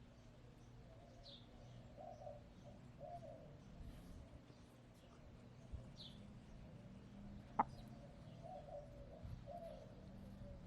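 Faint, low, soft calls from backyard hens in two short runs, with a few high chirps from small wild birds. A single sharp click sounds about three-quarters of the way through.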